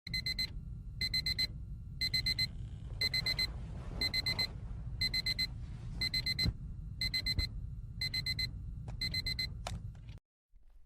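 Digital alarm clock beeping in quick bursts of about four high beeps, one burst every second, ten times over, over a steady low rumble; it cuts off just after ten seconds.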